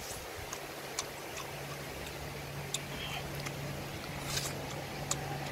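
Chewing and gnawing on cooked goose: scattered wet mouth clicks and smacks as meat is bitten from the bone, over a steady low hum that starts about a second in.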